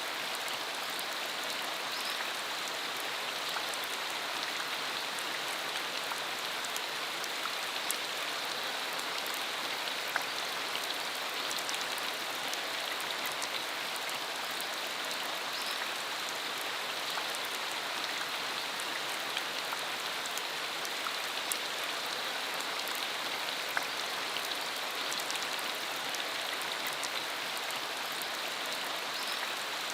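Steady rain shower, an even hiss with scattered single drops ticking through it.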